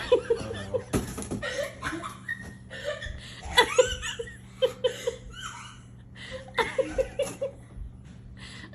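People laughing in several bouts of quick, repeated chuckles, with quieter breathy laughter between them.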